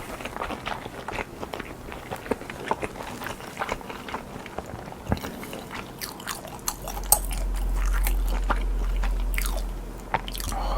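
Close-miked biting, crunching and chewing of crunchy food, with irregular crisp crackles throughout. A low rumble comes in a few seconds before the end and stops shortly before it.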